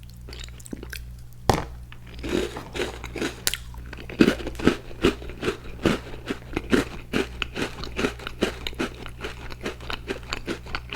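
Crunchy Icee cookie bitten with one sharp crack about a second and a half in, then chewed in a quick, steady run of crunches, about three a second.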